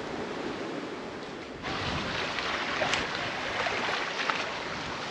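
Wind and choppy lake water washing against the shore, a steady rushing hiss that gets louder and brighter about a second and a half in.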